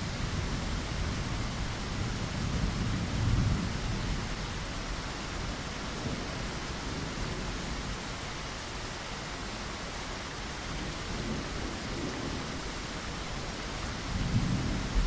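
Steady rain with low rolls of thunder, one swelling about three seconds in and another near the end.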